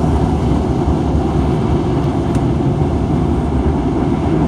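Steady low rumble heard from inside a car's cabin while it passes through an automatic car wash.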